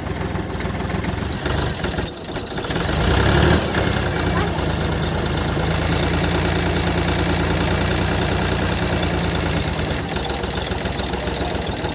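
An engine idling steadily, with a brief dip about two seconds in and a short swell in loudness about three seconds in.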